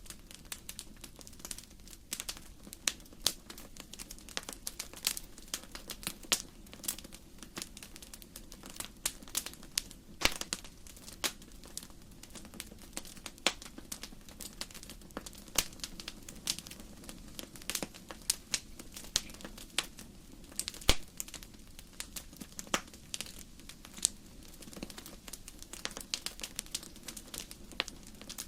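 Firewood burning in a fireplace, crackling: irregular sharp pops and snaps, several a second, over a steady low background of the fire.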